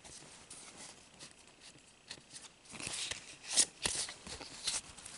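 Pokémon trading-card booster pack being opened and its cards handled: irregular crinkling of the foil wrapper and rustling of cards, with a few sharper snaps about three and a half to four seconds in.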